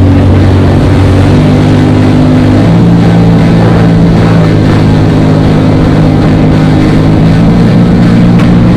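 Jet ski engine and water jet running loud and steady under way, with rushing wind and water. The engine note drops in steps as the rider changes throttle.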